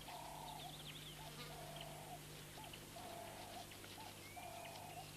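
Faint wild animal calls: a quavering call about two-thirds of a second long, repeated roughly every second and a half, with short blips in between and faint high chirps above.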